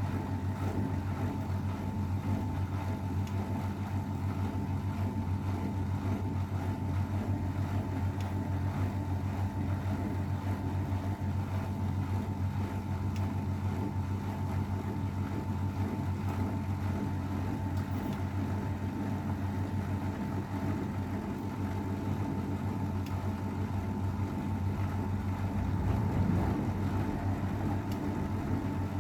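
AEG Öko_Lavamat 693 washing machine spinning its drum at steady speed, the motor giving an unbroken hum, in the final spin of the cycle.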